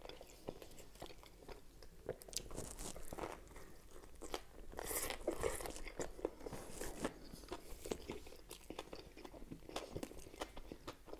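Close-up biting and chewing of a toasted Subway sub, heard as a run of small, irregular crunches and clicks from the crusty bread.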